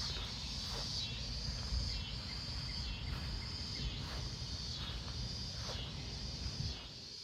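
Insects chirping in a steady high chorus, over a low rumbling noise that eases off near the end.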